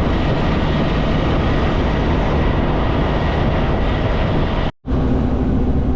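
Steady in-cab drone of a Kenworth K200 cabover road train's Cummins diesel engine and tyres while cruising on the highway. The sound cuts out abruptly for an instant about three-quarters of the way through, then picks up again with a slightly different steady hum.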